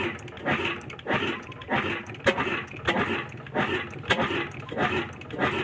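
Old Ruston Hornsby single-cylinder diesel engine running slowly, its exhaust chuffing in an even beat of about two beats a second over a low hum.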